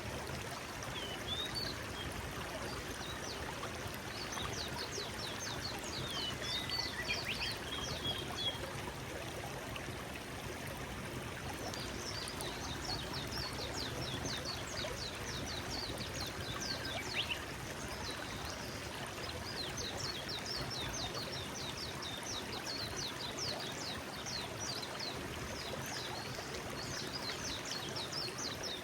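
Forest stream flowing steadily over stones, with small birds singing runs of quick high chirps over the water several times.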